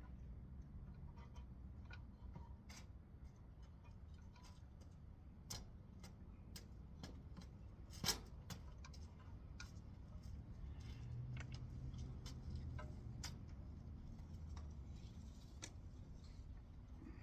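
Scattered light clicks and taps of hand tools and small metal parts while the gas tank and carburetor assembly is taken off a small engine, with one sharper click about eight seconds in, over a low hum.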